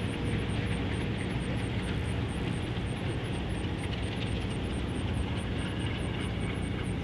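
Alco C420 diesel locomotives running with a steady low rumble from their V12 prime movers.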